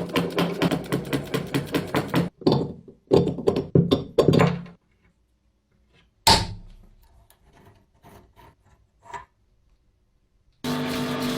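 Rapid hammer strikes, several a second, in two runs over the first five seconds, then one single sharp knock and a few faint clicks. Music comes in near the end.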